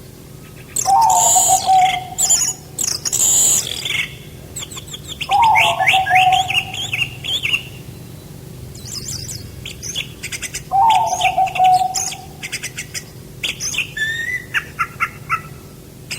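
Several songbirds chirping and trilling in quick high notes, with a lower, slightly falling call repeated about every five seconds.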